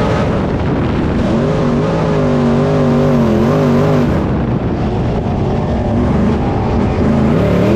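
Race car engine running hard during hot laps, its pitch wavering up and down as the throttle is worked, dropping out for a moment about halfway through and climbing again near the end.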